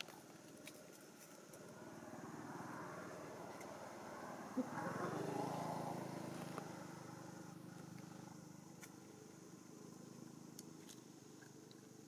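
A motor vehicle passing, its engine noise building to a peak about halfway through and then fading away, with one sharp click a little before the peak.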